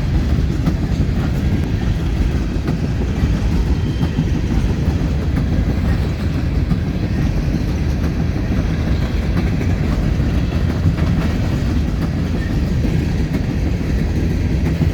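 BNSF freight train passing at speed: a steady rumble of wheels on the rails with clicking over the rail joints, which sounds like music.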